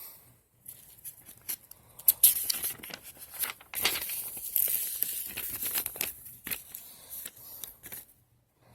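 Paper rustling and crinkling as the kit's thin instruction manual is handled and its pages turned, with many small sharp crackles, busiest in the middle and dying down near the end.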